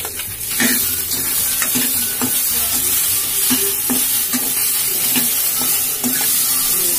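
Chopped okra and onions sizzling in hot oil in a metal pot while a metal ladle stirs them, knocking and scraping against the pot about once or twice a second. The sizzle swells about half a second in.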